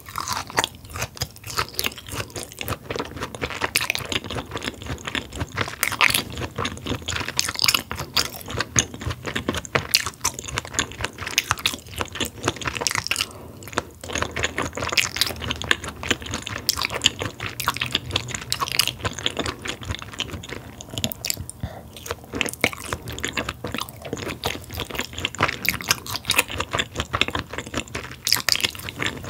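Close-miked chewing of raw beef (yukhoe dressed with egg yolk and sesame oil): a dense, continuous run of wet smacks and sticky clicks from the mouth, with only brief pauses.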